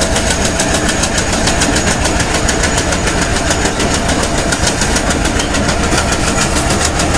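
Passenger train running along the line, heard from on board: a steady, loud rumble of wheels and wind with a fast, even pulsing.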